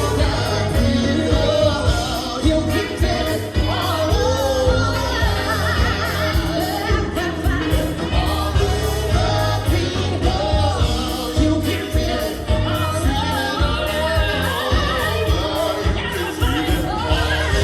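A live band playing amplified music with singing over a heavy bass line and a steady drum beat.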